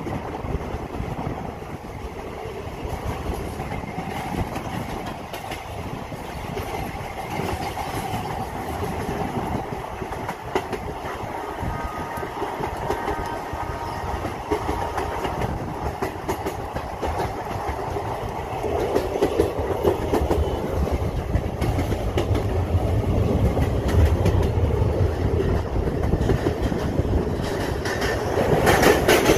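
Passenger coach running at speed, heard from its open doorway: wheels clattering over the rails with steady rushing noise. From about two-thirds of the way in it grows louder, with a heavier low rumble, as the train crosses a bridge.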